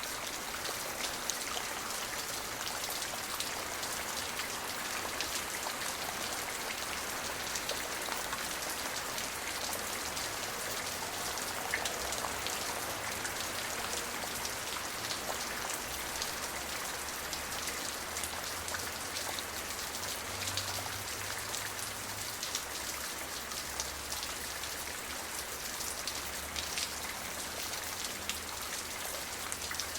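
Steady rain falling, with many fine drop taps on a surface over an even hiss.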